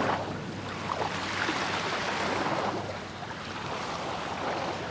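Waves washing onto a sandy beach: a rushing wash that swells and then eases off.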